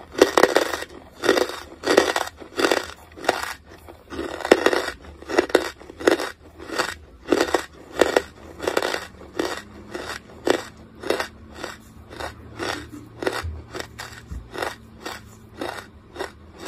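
Close-miked chewing of charcoal: a steady run of crisp crunches, about two a second, growing softer toward the end as the pieces are ground down.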